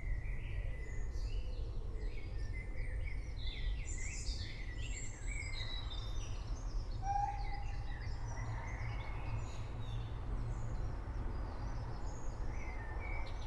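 Many birds chirping and calling in short, overlapping notes over a steady low rumble.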